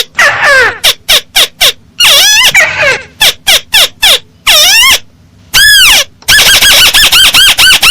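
Recorded calls of a paddy-field crake (tikusan sawah), played loud: harsh squawking notes, some sweeping down in pitch, mixed with short sharp notes. A little past six seconds in they turn into a fast run of short rising-and-falling notes, about five a second. It is a lure call for attracting the bird.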